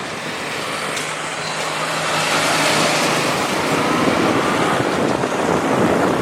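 Motorbike ride through traffic: the engine running under a heavy rush of road noise that grows louder over the first few seconds as the bike picks up speed.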